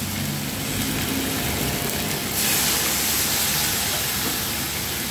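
Onion-garlic masala frying in a wok, then a louder hissing sizzle about two and a half seconds in as a water-and-spice paste of cumin, coriander and turmeric is poured into the hot oil.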